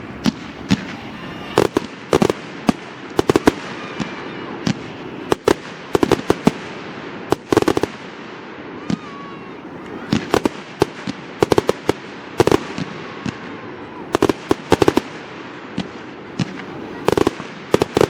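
Fireworks display: aerial shells bursting in quick, irregular bangs, several a second at times, over a continuous crackling rumble, with a few faint whistles.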